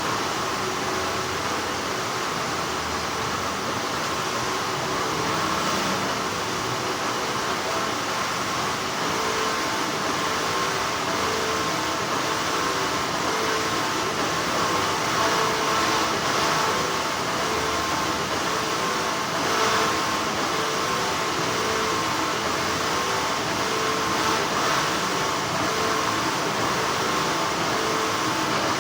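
Steady hum of textile factory machinery, an even noise with faint tones in it, with a few faint clicks now and then.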